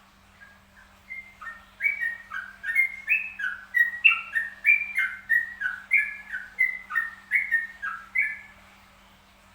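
A bird singing a long run of quick, clear whistled notes that step down and back up in pitch. It starts about a second in and stops shortly before the end.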